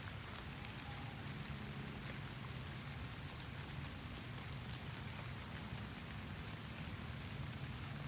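Steady rain falling, with scattered faint drop ticks and a low steady hum underneath.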